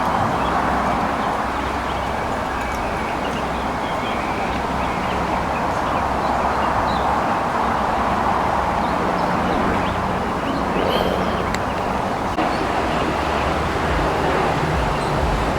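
Steady, indistinct murmur of a crowd in a convention hall, a blend of many distant voices with no single speaker standing out.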